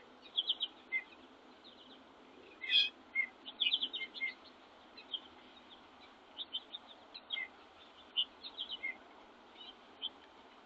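Small songbirds giving short, high chirps in scattered runs, with one louder call about three seconds in, over a steady background hiss.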